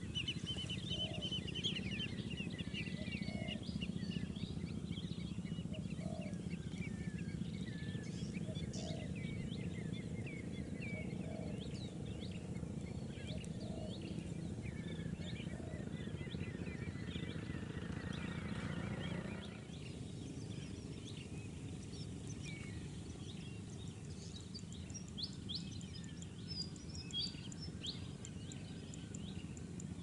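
Many small birds chirping and twittering, with a low note repeating about once a second through the first two-thirds. A steady low rumble underneath drops away about two-thirds of the way through.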